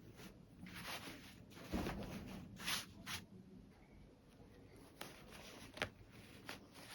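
Fabric being handled during sewing work: several soft rustling swishes, then a few small sharp clicks in the second half.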